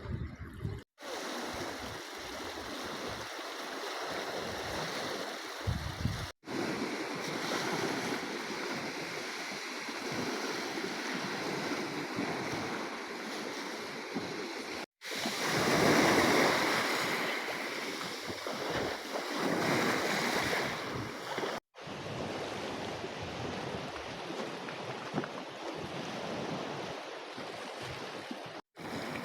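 Sea waves washing, with wind on the microphone. The sound cuts out for an instant four times, and a louder wash of surf comes about halfway through.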